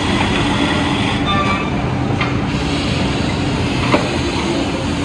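Heavy-duty woodworking drilling and milling machine running steadily with a constant mechanical noise and hum, and one sharp click about four seconds in.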